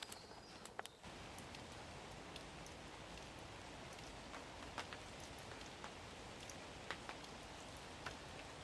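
Light rain falling on forest foliage: a steady hiss with scattered, sharper drops.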